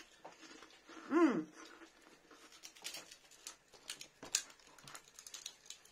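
A person chewing crispy deep-fried prawn crackers, with many sharp, irregular crunches. About a second in there is a short rising-and-falling hum.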